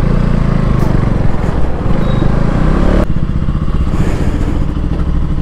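KTM Duke motorcycle engine running at low revs as the bike rolls slowly, with a steady low rumble. The sound changes abruptly about three seconds in, then the engine runs on at idle.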